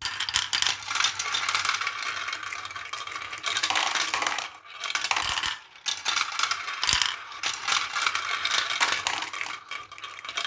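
Many marbles rolling and clattering down a marble run: a dense stream of small clicks and rattles, with brief lulls twice midway.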